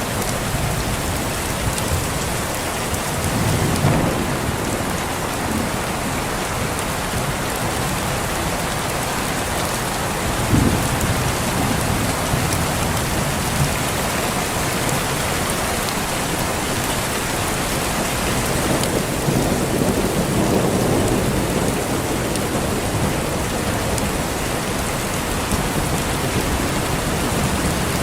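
Steady heavy rain with thunder rumbling three times: about four seconds in, a sharper clap about ten seconds in, and a longer roll around twenty seconds.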